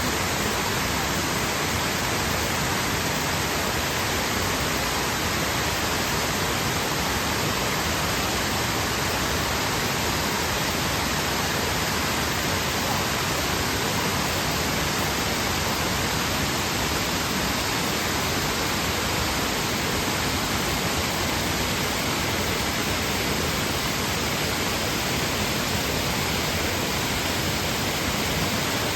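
Waterfall: water pouring steadily over rock in a constant, even rush of white noise with no change.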